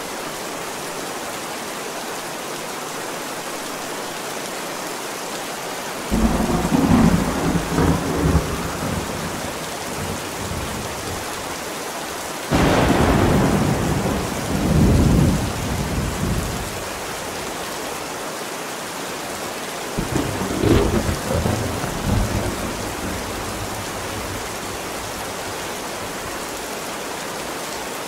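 Steady heavy rain hissing, with three rolls of thunder: one about six seconds in, a louder one that cracks in suddenly at about twelve and a half seconds and rumbles on for several seconds, and a third at about twenty seconds.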